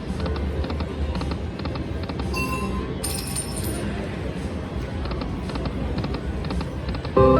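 Slot machine game sounds over a steady casino hum: faint electronic chimes, a short bright chime with a high whoosh about two and a half seconds in, and the machine's loud melodic tune starting near the end.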